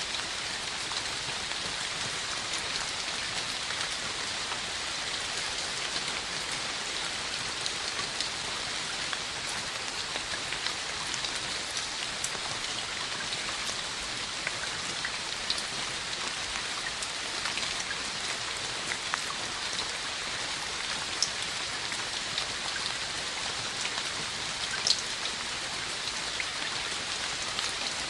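Steady rain falling on a hard surface, an even hiss with a few sharper single drop hits, the loudest about 25 seconds in.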